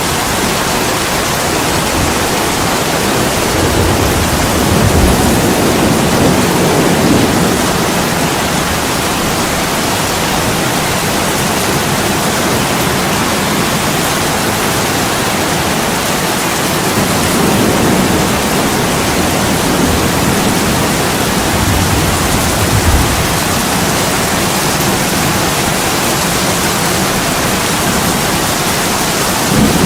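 Heavy rain falling steadily on a window and roof, a dense even hiss. A low rumble swells up and fades a few times.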